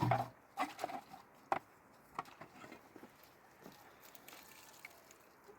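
A few scattered sharp knocks and clicks, the sharpest about one and a half seconds in, over a low steady background.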